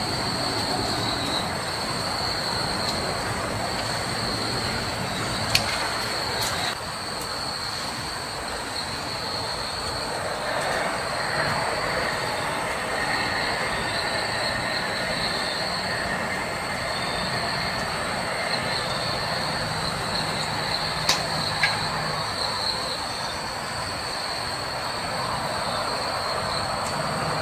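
Forest insects droning in a steady high-pitched whine over a broad, even hiss, with a few sharp clicks, two of them close together past the middle.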